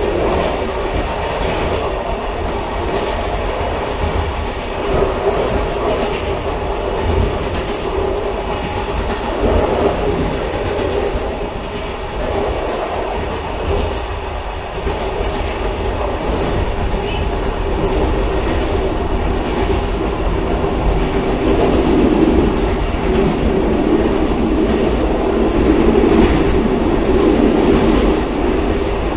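Railcar running along the track: a steady rumble with a mid-pitched drone, growing a little louder in the last third.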